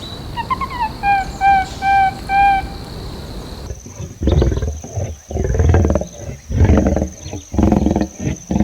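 Animal calls from two different clips: first a run of about five short, high, even-pitched calls, then, after an abrupt cut, about six rough, low, loud calls in bursts.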